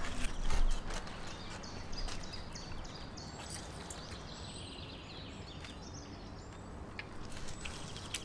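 Outdoor ambience with a small bird chirping in short repeated notes and a few high whistles. A few sharp handling noises come in the first second as salmon skin is pulled from the fillet by hand.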